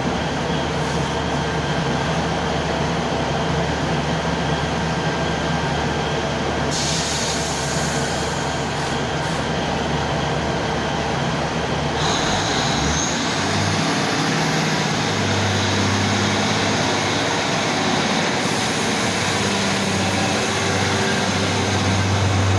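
Class 150 Sprinter diesel multiple units standing at the platform with their diesel engines idling, a steady drone. About halfway through the engine note shifts lower and heavier, and a faint high whine rises.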